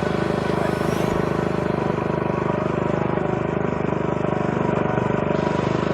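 Engine of a homemade motorcycle running steadily at an even speed, with a fast regular firing pulse.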